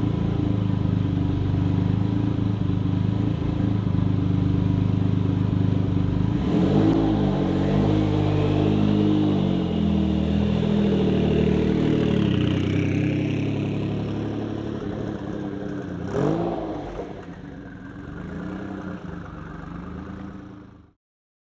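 Jaguar XJ220's twin-turbo V6 running steadily, then revving with rising and falling pitch from about seven seconds in as the car moves off. The sound fades with distance, with one brief sharp rev about sixteen seconds in, and cuts off abruptly near the end.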